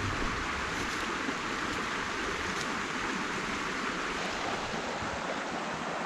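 Steady rushing water, as from a stream or waterfall: a constant even hiss with no breaks.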